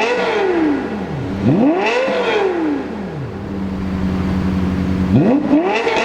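Lexus LFA's 4.8-litre naturally aspirated V10 on its stock exhaust being blipped while stationary. The pitch falls from a rev at the start, shoots up and drops back in one quick rev about a second and a half in, and settles to a steady idle. A new sharp rev climbs just before the end.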